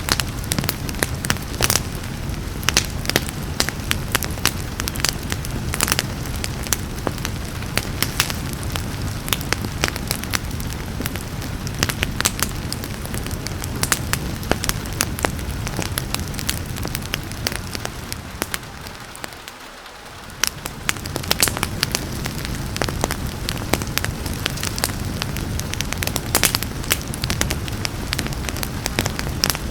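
Wood fire crackling, with frequent sharp pops and snaps over a steady hiss of rain. About two-thirds of the way through, the whole sound dips briefly and then comes back up.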